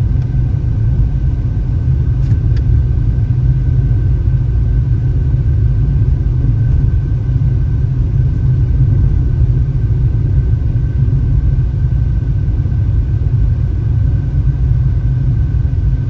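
Car driving on a mountain road, heard from inside the cabin: a steady low rumble of engine and tyre noise, with a faint steady high tone above it.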